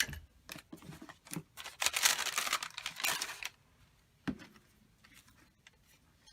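Paper being handled and rustled at a craft desk, loudest for about a second and a half in the middle, with a few light taps and a single knock on the table after it.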